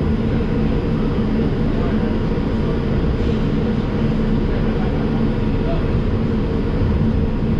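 Steady rumbling hum inside an R142 subway car standing at a station, with a low hum from the car's equipment running under it.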